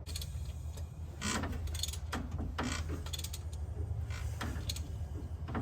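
Ratchet wrench clicking in short, irregular strokes as a Ford 351 Windsor V8 is turned over by hand to bring a valve through its lift.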